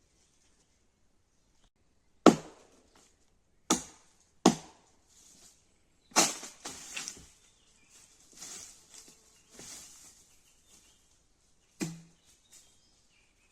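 Wood being chopped: five sharp strikes on wood at uneven intervals, with fainter rustling and crackling between them.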